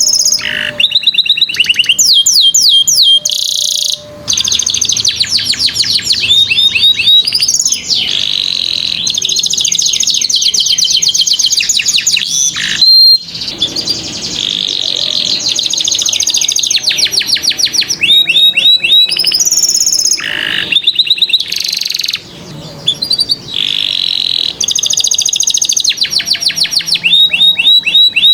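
Domestic canary singing a long, loud song of fast trills and rolls, rapid repeated notes that switch to a new pattern every few seconds with only brief pauses. This is the kind of full-volume song used to prompt young canaries to start singing.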